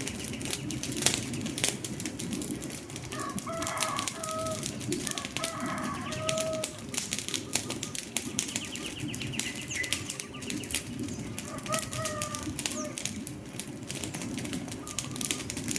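Wood fire crackling with a steady run of sharp pops and snaps. A bird calls in short pitched notes a few seconds in, and again a couple of times in the second half.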